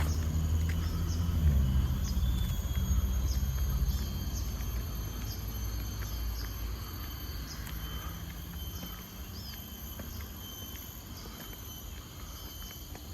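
A motor vehicle's engine rumble, loudest in the first few seconds and then fading away, over a steady high chirring of insects with small chirps repeating every second or so.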